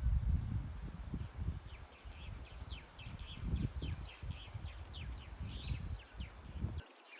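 Wild birds calling in a run of quick, high, falling chirps through the middle, over a steady low rumble that cuts off suddenly near the end.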